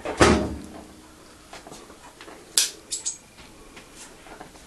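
A dull knock, then a couple of sharp, bright clicks about two and a half seconds later.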